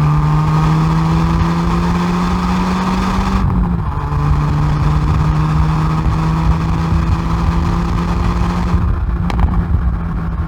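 Hyundai i30N Performance's 2.0-litre turbocharged four-cylinder exhaust under hard acceleration at high revs. The note climbs slowly, drops sharply at an upshift about three and a half seconds in, then climbs again. A single sharp crack comes near the end as the exhaust hiss falls away.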